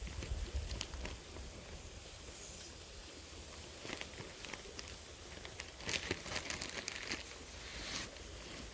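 Crinkling and crackling in scattered clusters, densest about six seconds in, over a steady hiss.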